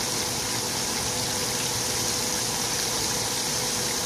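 Thin breaded pork chops sizzling in hot oil in a frying pan: a steady hiss of deep frying.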